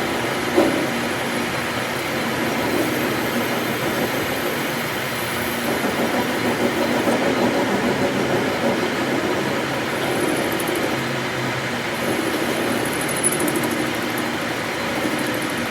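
Steady running noise of workshop machinery, with a short knock about half a second in and a fainter one near the end.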